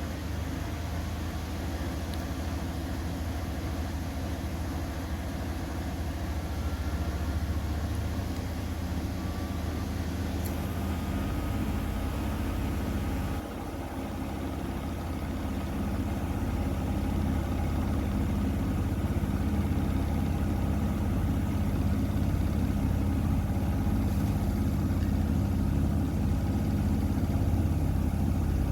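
Miele laundry machine running with a steady motor hum and drum rumble. There is a brief drop about 13 seconds in, then the sound builds gradually louder.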